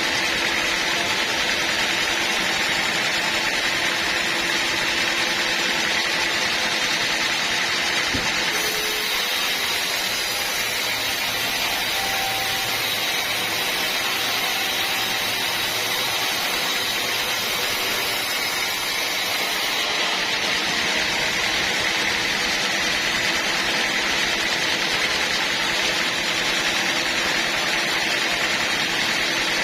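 Sawmill machinery running steadily: a continuous, loud mechanical noise with a faint steady high whine.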